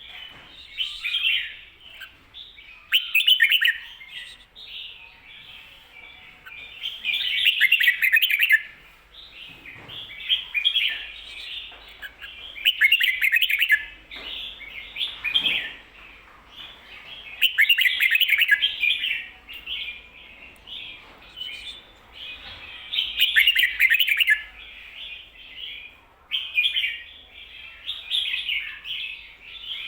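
Red-whiskered bulbul singing: short, loud, chirpy warbled phrases repeated every few seconds, with softer chattering notes in between.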